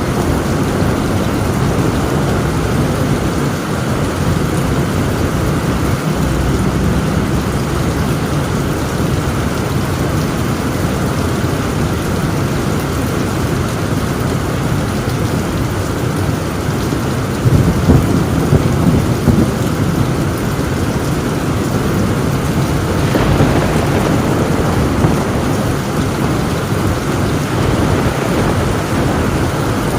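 Heavy rain falling steadily on a tin roof, with thunder rumbling under it and a louder rumble of thunder a little over halfway through.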